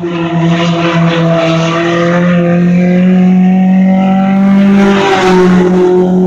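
Compact-class race car engine at full throttle on a qualifying lap, loud and close, holding a nearly steady pitch with a slight dip about five seconds in.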